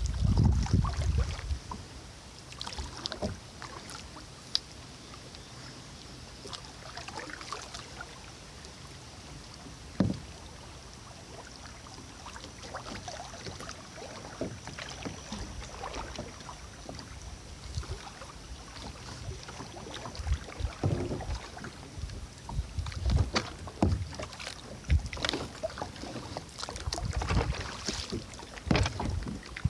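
Kayak paddle dipping and splashing in river water, with scattered drips and a sharp knock about ten seconds in. Wind gusts rumble on the microphone at the start and again through the last third.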